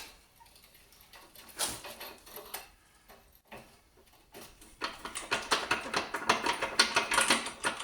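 Hand tools working a seized 19mm bolt on a steel car subframe: a few scattered metal knocks, then, a little over halfway through, about three seconds of rapid metallic clicking and rattling.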